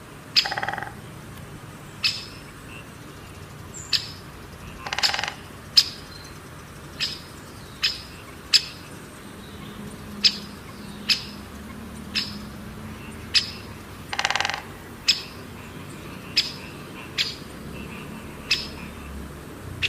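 Birds calling: a short, sharp, high chirp repeats about once a second, and three longer, harsher calls come in just after the start, around five seconds in, and about fourteen seconds in.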